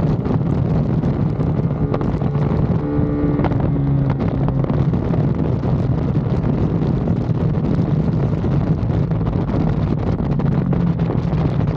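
Ducati Panigale V2's twin-cylinder engine running hard at track speed, with heavy wind rush over the microphone. The engine note steps briefly in pitch about three seconds in.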